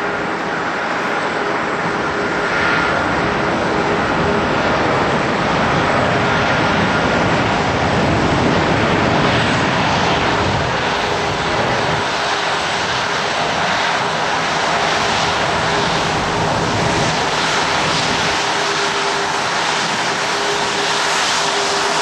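Boeing 767-300ER's twin jet engines running: a steady rush of noise with a few steady whining tones, swelling slightly over the first several seconds and then holding.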